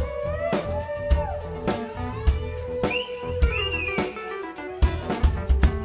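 Live rock band playing an instrumental passage: a drum kit keeps a steady beat of a little under two hits a second under a held keyboard note, while lead lines bend up and down in pitch above it.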